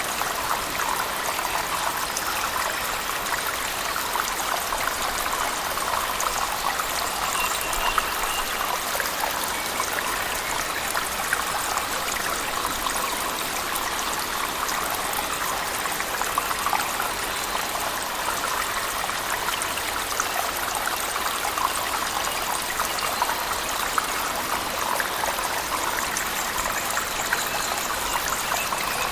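Cave waterfall splashing steadily, mixed with heavy rain, as a constant water noise dotted with fine drips and splashes.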